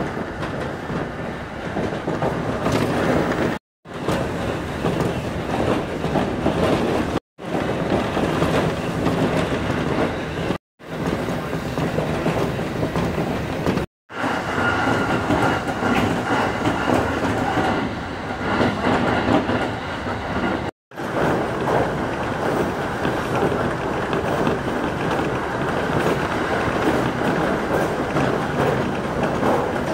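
Electric commuter train running at speed, heard from inside the car: a steady rumble with wheels clattering over the rail joints. Five brief dead silences break it where the recording is cut.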